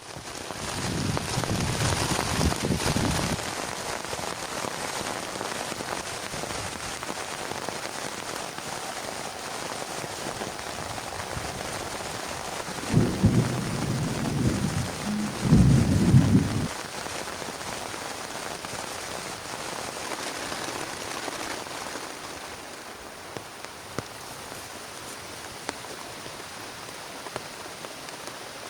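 Heavy rain falling steadily, with a roll of thunder about a second in and two louder rumbles around the middle. The rain eases a little near the end.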